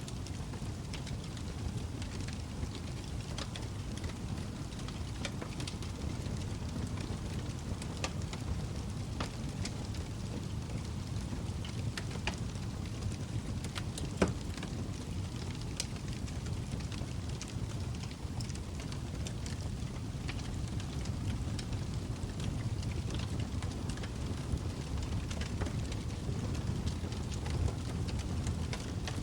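Log fire burning in a fireplace: a steady low rumble of flames with scattered crackles and pops, one sharper pop about halfway through.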